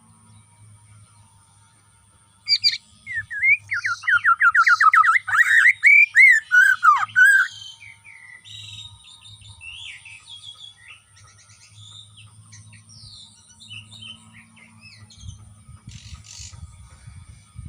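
Bornean white-rumped shama (murai batu) singing. About two seconds in it bursts into a loud run of fast, repeated notes lasting about five seconds, then carries on with softer, varied whistled phrases.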